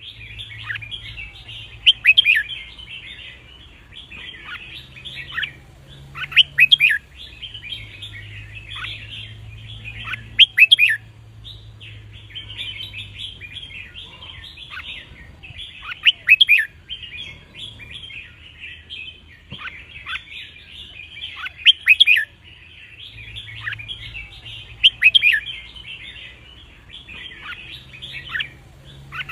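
Red-whiskered bulbul singing: loud, clear song phrases every two to three seconds over a steady chatter of birdsong. These are the song phrases counted in bulbul singing contests.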